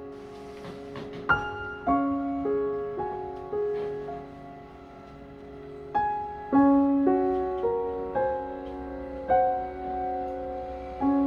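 Slow solo piano background music: single notes and chords struck and left to ring and fade.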